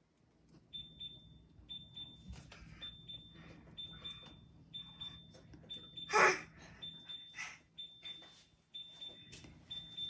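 Refrigerator door-open alarm beeping, a short high single tone about once a second. About six seconds in, a baby gives one loud excited shriek, with smaller baby squeals and grunts around it.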